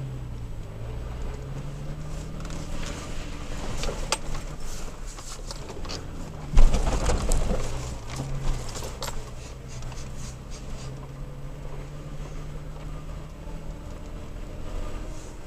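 Toyota Tacoma pickup crawling over a rough, potholed dirt trail, heard from inside the cab. The engine drones low, its pitch rising and falling, with knocks and rattles as the truck jolts through holes, and one heavy thud about six and a half seconds in.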